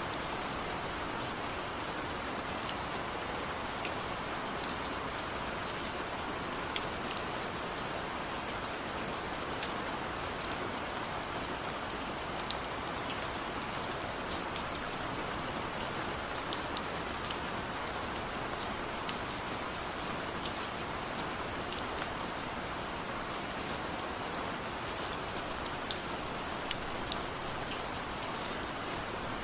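Steady rain falling: an even hiss with many scattered sharp ticks of individual drops striking.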